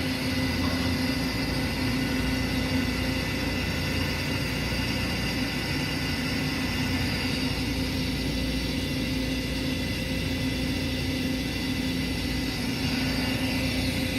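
A train's on-board equipment humming steadily with a constant low tone and a faint high whine, with no change in pitch.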